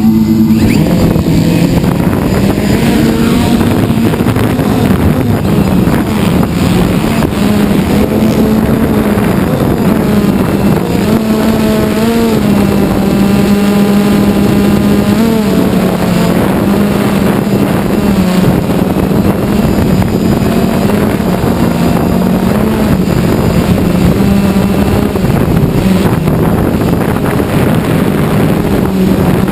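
Quadcopter drone's propellers humming steadily close to the microphone, their pitch shifting slightly as the motors adjust, with wind noise. Around the middle, motocross bikes can be heard revving up and down behind the hum.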